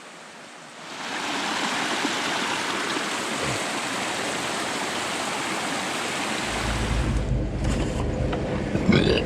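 Creek water rushing steadily and close. About seven seconds in, it gives way to a steady low vehicle engine rumble, with a short belch near the end.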